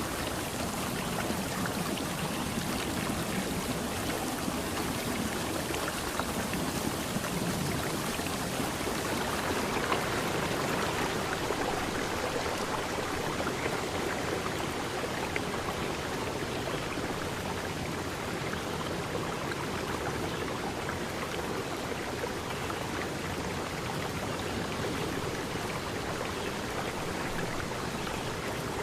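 River stream rushing and splashing steadily over rocks.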